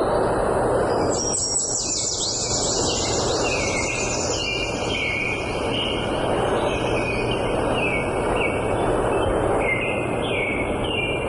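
Songbirds singing over a steady rushing background noise: a quick run of high falling notes about a second in, then a series of short chirps repeated about twice a second.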